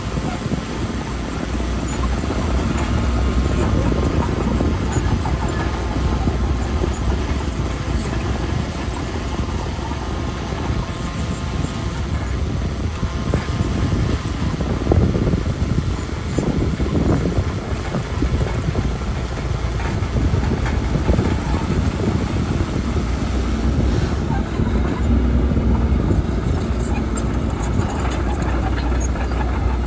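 Heavy earthmoving machine's diesel engine running steadily with a low rumble.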